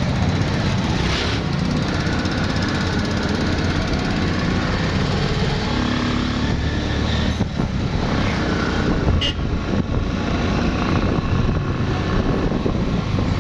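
Motor vehicle running on a road: steady engine and road noise, strongest at the low end.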